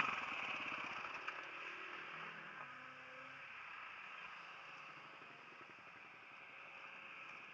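Motocross bike engine running, its firing pulses strong at first and then fading as the overall sound slowly dies away.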